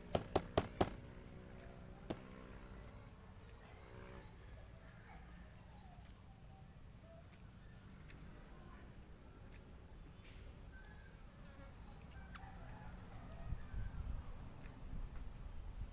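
Insects droning steadily at a high pitch. There is a quick run of sharp clicks right at the start, a short high chirp about six seconds in, and some soft low knocks near the end.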